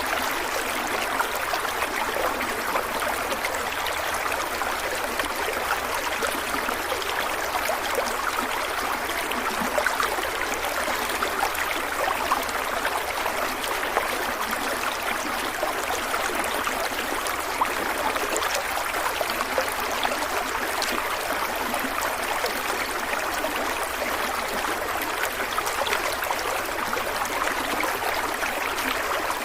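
A stream of water running over rocks: a steady, even babbling and splashing.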